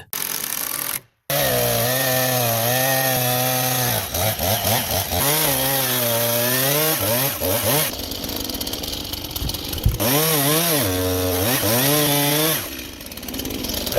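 Chainsaw running and cutting into log walls, its engine pitch rising and falling as it revs and bogs under load. There is a brief silent break about a second in, and the sound changes abruptly a few times.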